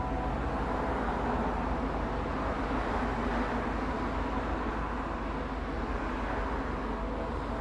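A steady rumbling drone with a few faint humming tones woven through it, with no breaks or sudden sounds: the unexplained noise that is taken to be coming from the sky.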